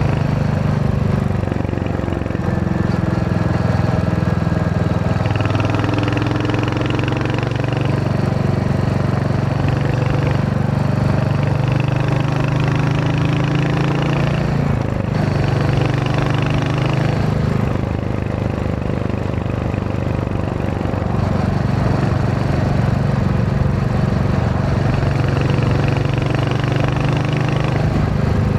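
Royal Enfield Hunter 350's single-cylinder engine running while riding, its pitch shifting up and down several times with throttle and gear changes.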